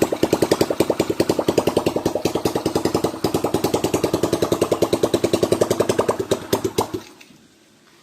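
Kawasaki CT100's single-cylinder two-stroke engine running with a rapid, even popping of about nine firing pulses a second, on a test run after its sheared flywheel key was replaced. It cuts off abruptly about seven seconds in.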